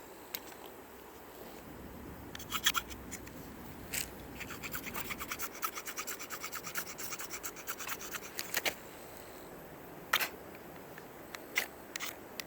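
Rapid scraping strokes, about eight a second for some four seconds in the middle, with a few separate sharp cracks before and after.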